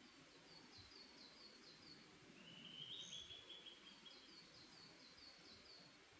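Forest birdsong: one bird sings a quick run of short, high, falling notes, about four a second, twice. Between the runs a second, lower trilling phrase lasts about a second, all over a faint low background rumble.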